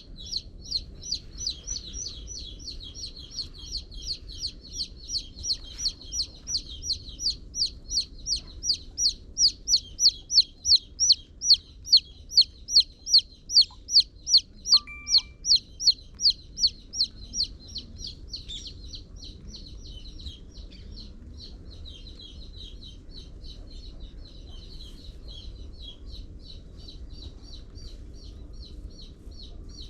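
A chick peeping loudly and steadily, about three high peeps a second, loudest around the middle. The peeping stops about 18 seconds in, leaving fainter chirping from several chicks.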